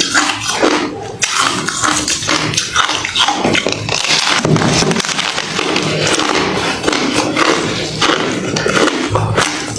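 Close-up crunching of hard refrozen crushed ice being chewed in the mouth, a dense irregular run of crisp cracks and crunches without pause.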